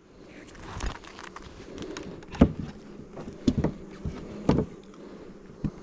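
Honeybees buzzing around an open hive, with several sharp knocks from the hive's boxes and parts being handled, one about two and a half seconds in and a few more close together later.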